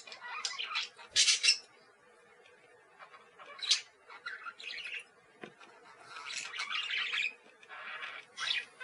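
Parakeets chattering and squawking in irregular bursts of short, high calls, loudest about a second in, with a brief lull before the calls pick up again and crowd together near the end.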